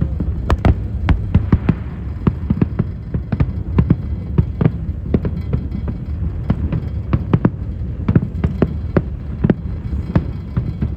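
Fireworks bursting in a fast, irregular barrage of bangs, several a second, over a continuous low rumble.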